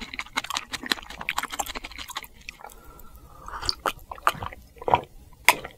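Close-miked chewing of food: quick wet smacks and clicks of the mouth, dense at first, then sparser with a few louder smacks near the end.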